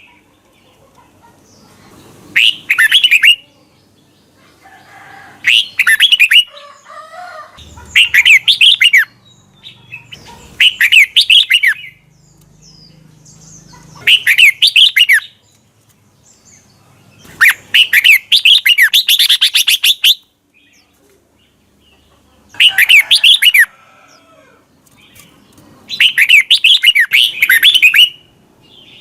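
Red-whiskered bulbul singing: about eight short, rapid warbled phrases a few seconds apart, with one longer phrase around the middle.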